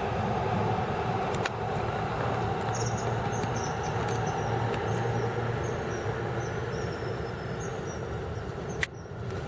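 Steady low rumble of distant traffic, with a run of short high chirps through the middle and a sharp click near the end.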